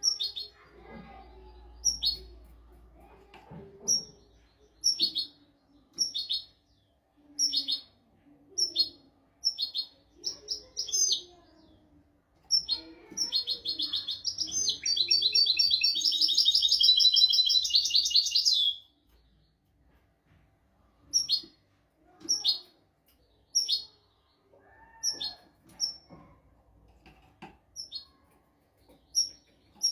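European goldfinch singing: short, sharp high chirps about once a second, broken in the middle by a fast, loud trilling phrase of about six seconds.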